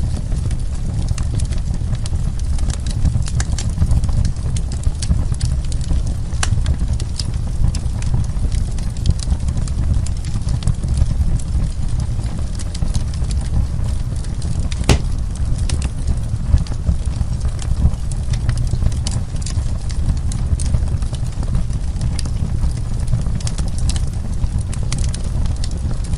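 Wood fire burning, a steady low rumble under frequent sharp crackles and pops, one louder pop about fifteen seconds in.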